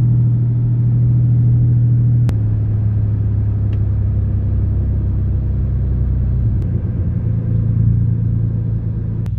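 Car driving, heard from inside the cabin: a steady low engine and road drone that drops slightly in pitch about two seconds in, with a sharp click, and rises again near the end, with a few faint clicks.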